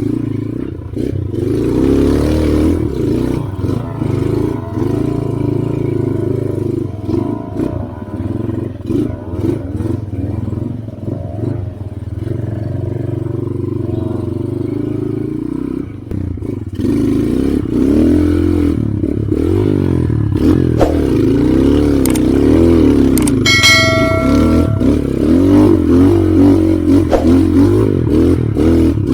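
Trail motorcycle engine revving up and down under load as it climbs a rough off-road trail, with the bike clattering over the ground. A brief high squeal sounds about 24 seconds in.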